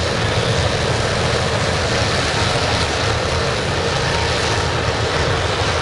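Waste-oil burner firing a scrapping furnace, running at a steady, even rush with its fuel valve less than half open.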